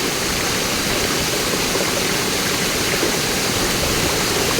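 Rushing water of a jungle stream and waterfall, a steady, even rush.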